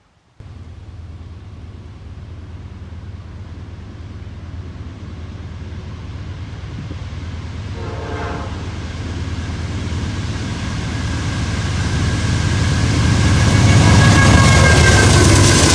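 Diesel freight locomotives approaching, their engine drone growing steadily louder. A short higher note sounds about eight seconds in, and higher steady tones come in near the end as the train draws close.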